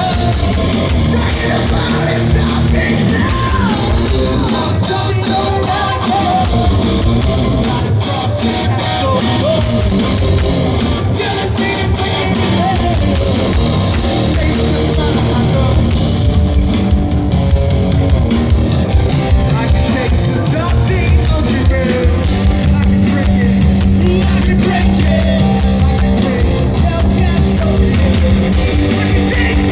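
Live heavy rock band playing a song at full volume: distorted electric guitars, bass and drums, with sung and shouted vocals.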